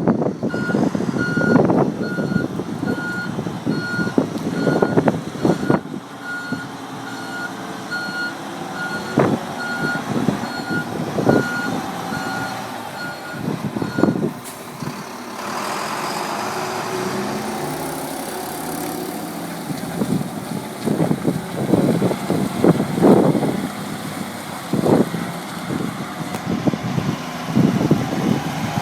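Volvo A25D articulated dump truck running, its reversing alarm beeping steadily about once a second for roughly the first half before stopping. About halfway through comes a hiss, and clanks and knocks are heard throughout, loudest near the end.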